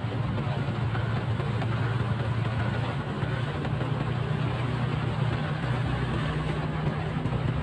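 Motorcycle engine running steadily while riding, a low even hum that shifts slightly in pitch about three seconds in, over a constant rushing noise.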